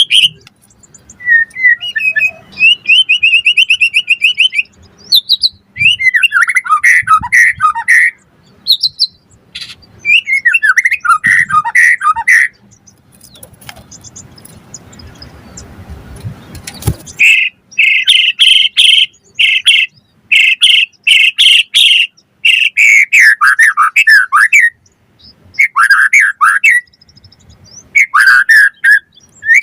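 White-rumped shama (murai batu) singing loud phrases of rapid, repeated whistled notes, with short pauses between phrases. A rushing noise builds for a few seconds midway and cuts off suddenly.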